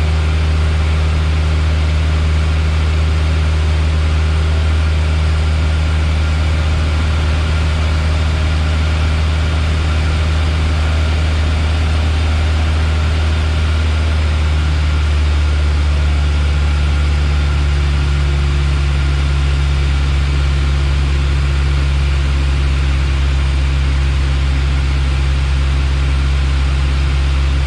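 Piper Warrior's four-cylinder Lycoming engine and propeller droning steadily, heard inside the cockpit, with a slight change in engine speed about halfway through.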